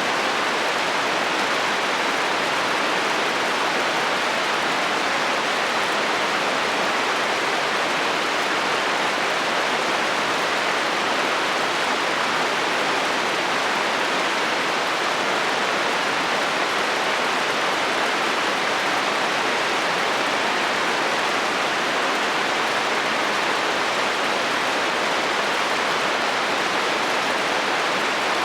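Steady heavy rain falling on a metal roof, an even hiss with no let-up and no thunder.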